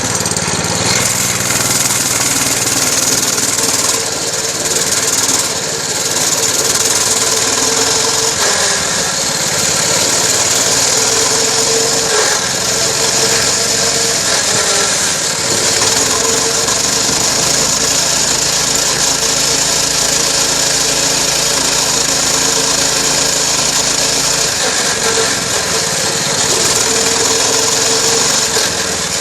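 Dirt bike engine running, its pitch shifting in steps, with heavy wind noise buffeting the microphone.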